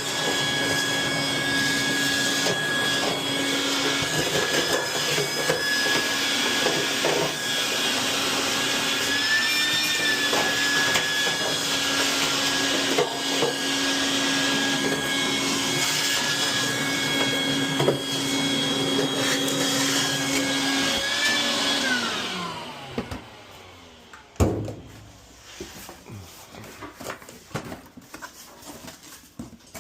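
Vacuum cleaner running steadily with a motor whine and hiss. It is switched off about two-thirds of the way in and spins down with a falling pitch. A sharp click and faint rubbing and handling noises follow.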